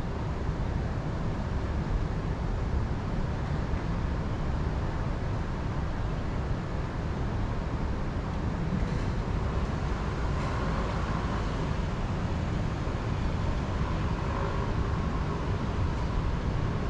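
Wind in a mountain forest, a steady rush with a low rumble on the microphone.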